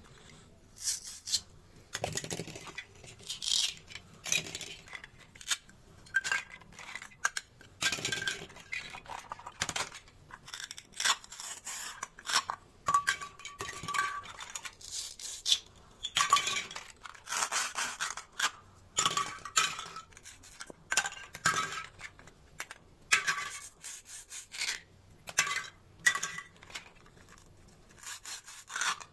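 Plastic toy fruit and vegetables being cut and handled: irregular clicks, clacks and short scrapes of hard plastic pieces, some with a brief ringing clink.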